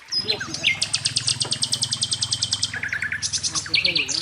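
Songbirds singing, with long fast trills of high repeated notes and short chirps over them. Under the birds, a low, rapidly pulsing motor hum starts just after the beginning.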